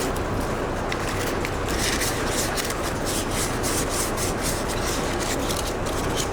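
Hand sanding of a primed steel wheel with fine 500-grit sandpaper: quick back-and-forth rubbing strokes at about three a second, starting about two seconds in, knocking down nibs in the primer over a steady low background noise.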